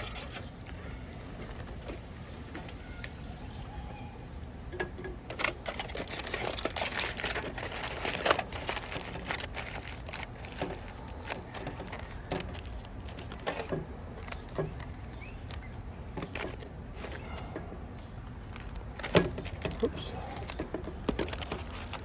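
Aluminium foil crinkling and rustling in irregular spells as it is folded and wrapped, with scattered clicks and a couple of sharper knocks.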